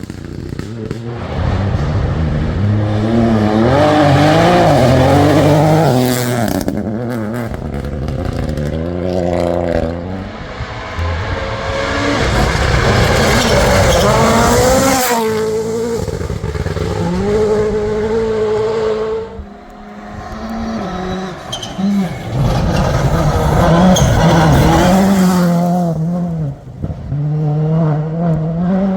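Rally cars at speed on a gravel shakedown stage, engines revving hard and climbing in pitch through the gears, then dropping off, over several passes with brief lulls between them.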